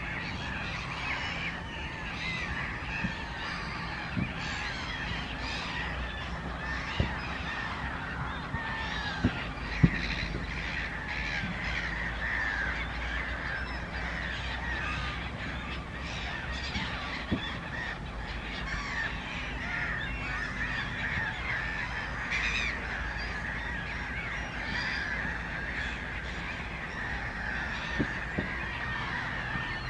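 A flock of waterbirds calling continuously, many overlapping calls at once. A few sharp knocks cut through, the loudest about ten seconds in.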